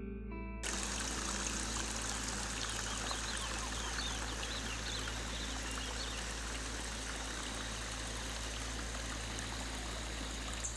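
Steady rush of running water, like a stream, cutting in suddenly just after the start. A few faint high chirps come about three seconds in.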